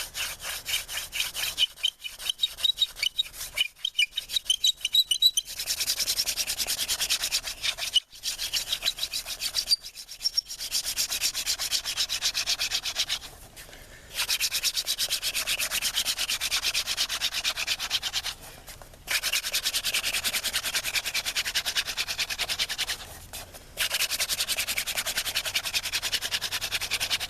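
Wooden hand-drill spindle spun between the palms on a hearth board for friction fire, its tip rubbing fast in the notch. It squeaks for the first few seconds, then gives a steady hissing grind in long runs with short breaks as the hands go back up the spindle.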